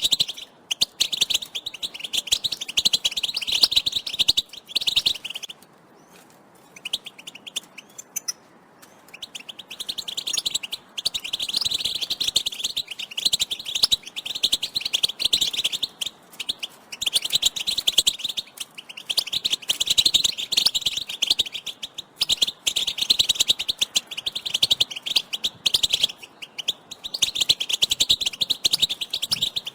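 European goldfinches giving rapid, twittering chirps and calls. The calls are strongest high up, fall away for a few seconds about five seconds in, then resume densely.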